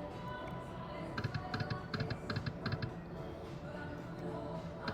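Electronic poker machine spinning, with quick clusters of short clicking ticks from about a second in until nearly three seconds, and again near the end. A low casino hum runs beneath.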